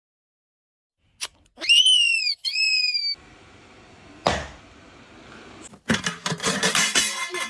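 Two short, high whistle-like calls, one after the other, each arching up and then falling. Near the end comes a stretch of noisy clatter.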